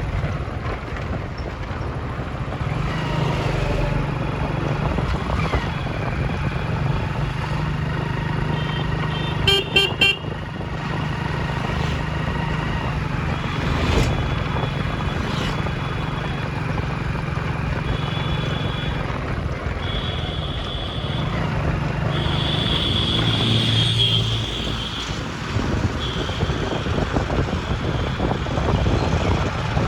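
Busy road traffic with a steady engine and road drone. Other vehicles sound their horns again and again: a quick run of short beeps about ten seconds in, and longer honks later, the longest lasting about three seconds.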